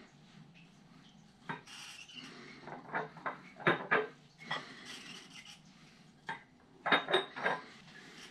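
Irregular clinks and knocks of hard objects being handled, like dishes and utensils, in clusters about halfway through and again near the end.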